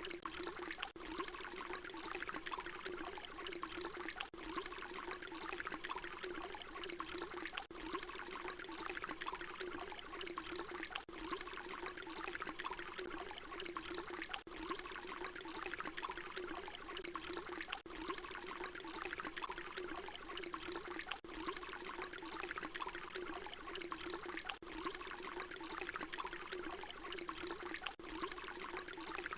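Water pouring in a steady stream, a short recording looped, with a brief drop-out at each loop seam about every three and a half seconds.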